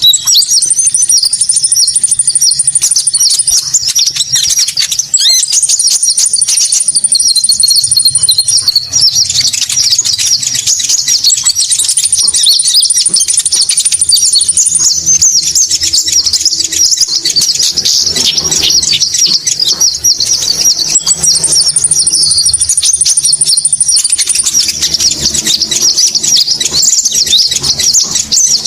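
Bird-lure recording of konin birds calling: dense, continuous high-pitched chattering and chirping, with a high buzzy trill of about three seconds coming back at intervals of roughly six seconds.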